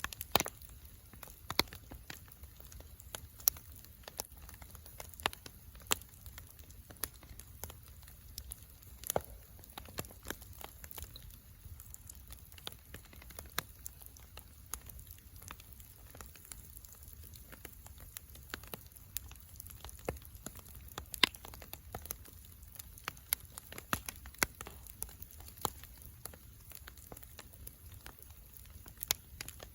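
Wood campfire burning, crackling with irregular sharp pops over a low steady rumble of the flames.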